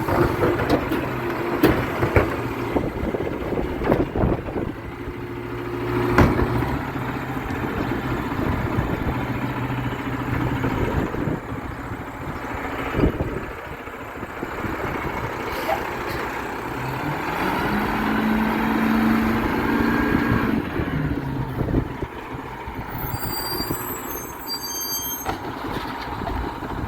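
Garbage truck running, with sharp clanks and knocks. About two-thirds of the way through, the engine revs up and holds for a few seconds.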